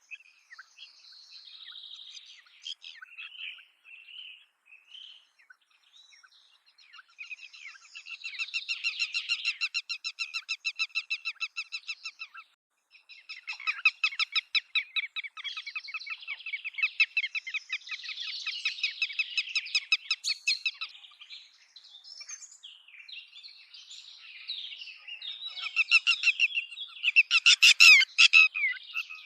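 Red-wattled lapwing calling in long runs of rapid, sharp repeated notes, with quieter scattered calls at first, a short pause partway through, and the loudest run near the end.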